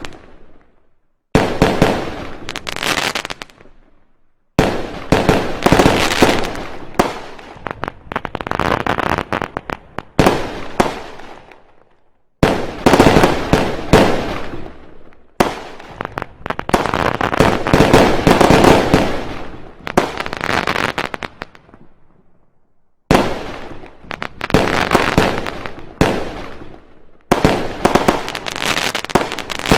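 Fireworks going off: rapid volleys of sharp bangs and crackles. They come in about seven runs that each start suddenly and tail off, with brief silences between them.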